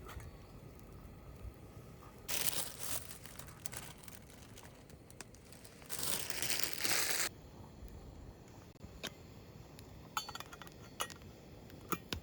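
Packaging crinkling and rustling in two bursts, then a few light clicks and taps near the end, while onion consommé soup is being prepared.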